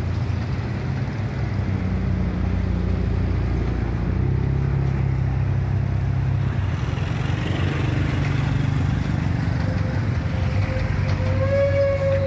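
Approaching train at a level crossing: a deep diesel locomotive engine rumble that grows a little louder partway through, with a steady high squealing tone setting in near the end.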